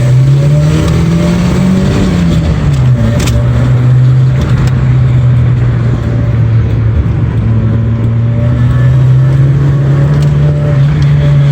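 Ford Festiva's small four-cylinder engine pulling under acceleration: the revs climb, drop at a gear change about two and a half seconds in, then run on steadily with the pitch slowly rising.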